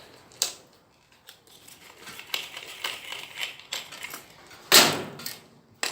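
Handling noises of tools on a workbench: scattered light clicks and rustles, with one louder clatter about five seconds in. No power tool is running.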